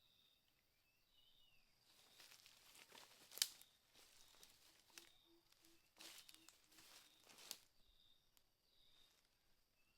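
Rustling and crackling of dry leaves or plant material being handled, with two sharp snaps, the first about a third of the way in and the second near three quarters. Faint bird or insect calls chirp in the background.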